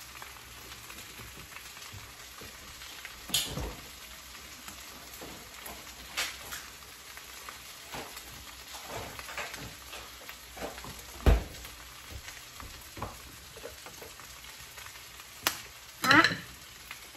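Chopped chicken sisig frying in a skillet, a steady sizzle, with scattered clicks and knocks and one louder low thump past the middle.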